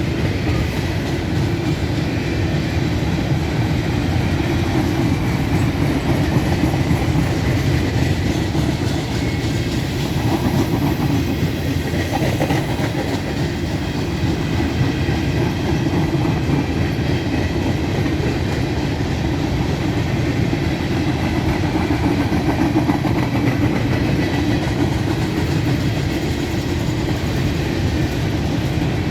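Empty grain train's cars rolling steadily past, with continuous wheel-on-rail noise.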